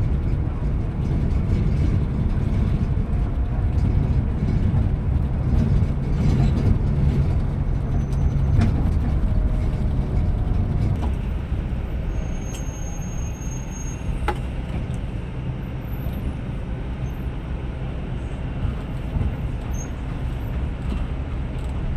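Scania Metrolink multi-axle coach running: a steady low rumble of engine and road noise that eases slightly about halfway through, with a few faint clicks.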